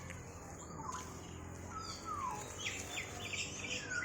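Several birds chirping and calling, with short scattered chirps and falling whistles, over a low steady hum.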